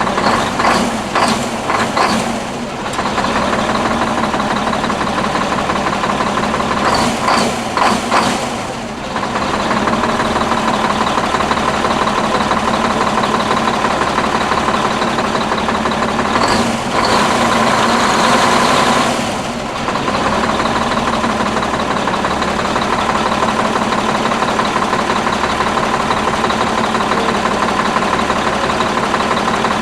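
Detroit Diesel 6V92 two-stroke V6 diesel in an old Ford 9000 truck running steadily at idle. Three times it briefly gets louder and noisier for a couple of seconds.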